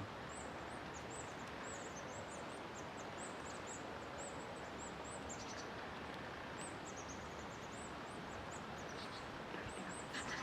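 Outdoor woodland ambience: a steady hiss with many short, very high-pitched bird chirps repeating throughout.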